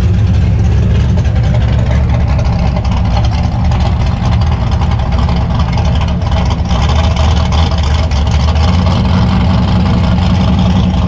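Car engine idling loudly and steadily close by.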